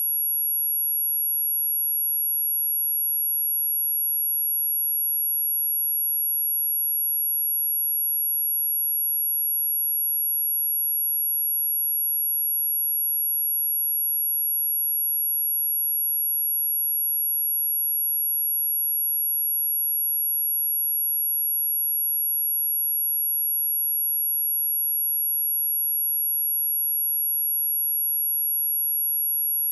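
A pure 11324 Hz sine-wave test tone: one steady, very high-pitched whine held at a constant level, with nothing else in it.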